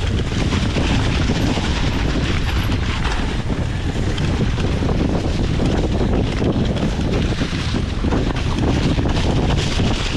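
Wind buffeting the microphone: a loud, steady rumbling roar with no break.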